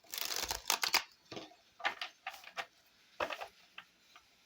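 Tarot cards being shuffled by hand: a run of papery riffling and clicking, longest in the first second, then several short bursts.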